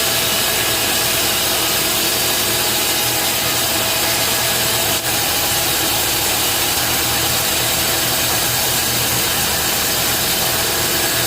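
Bandsaw sawmill running steadily: a low machine hum under a loud, even hiss from the saw, with one brief dip about halfway.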